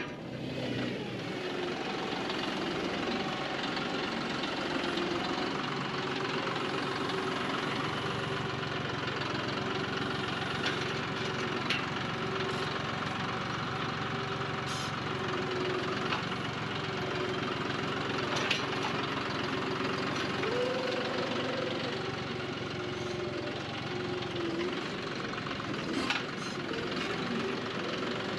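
John Deere 5055E tractor's three-cylinder diesel engine running steadily, with a sharp knock at the very start and a few metallic clanks along the way.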